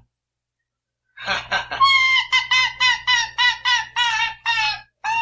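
Pet arctic fox giving a rapid string of high, yelping calls, about four a second, each dipping slightly in pitch at its end, starting about a second in.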